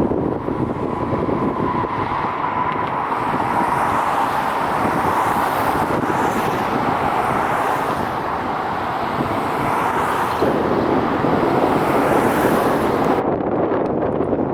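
Jet airliner engine noise close by: a loud, steady rush with a faint tone sliding slightly lower in the first few seconds, mixed with wind on the microphone.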